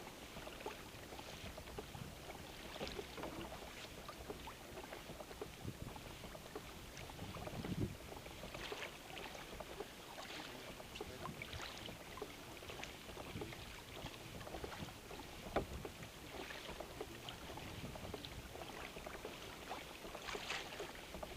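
Water lapping and splashing against a kayak hull, with scattered small knocks and one sharp click about fifteen seconds in.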